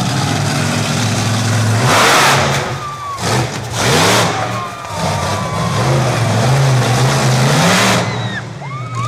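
Monster truck engine running and revved hard in three surges, the last one long, with its pitch climbing near the end before it drops back.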